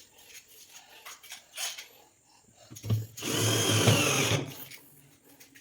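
Power drill running in one burst of about a second and a half, starting about three seconds in, with a few light clicks of handling before it.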